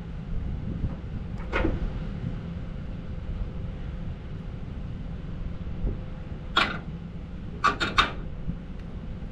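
Semi truck's diesel engine running with a low steady rumble. A sharp click comes about one and a half seconds in, another later, and a quick run of three clicks near the end.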